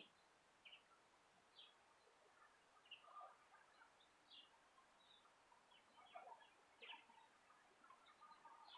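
Near silence with faint, scattered short bird chirps every second or so.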